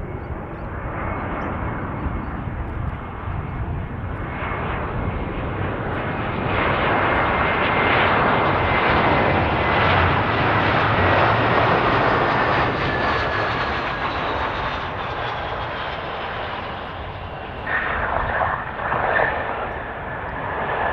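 Large jet airliner going past on its landing approach: a steady engine rush that swells and then eases, with a thin whine that falls slowly in pitch as it passes. Two short surges of noise come near the end.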